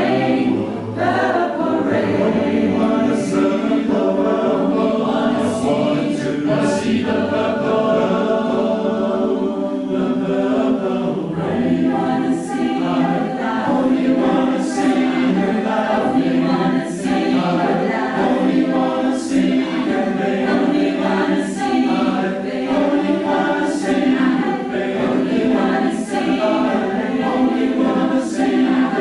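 Choir singing in sustained, slowly moving chords, with a short hissing accent about every two seconds.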